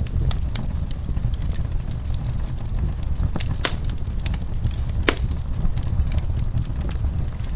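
Fireplace fire crackling: scattered sharp pops over a steady low rumble, with two louder pops at about three and a half and five seconds in.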